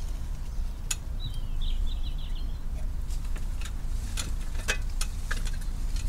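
A small songbird sings a short warbling trill about a second in. Several sharp knocks and clicks follow in the second half as the wooden bird box is handled and lifted down from the tree, over a steady low rumble.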